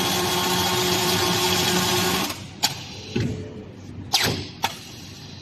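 Ringlock ledger welding machine running with a steady hiss and hum, cutting off suddenly about two seconds in. Then come four sharp metallic knocks.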